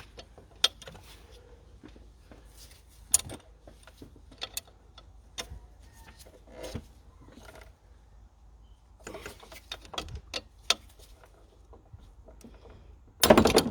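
Metal spanner clicking and clinking on the injector fuel pipe fittings of a diesel engine as the unions are undone one by one, with a louder clatter near the end.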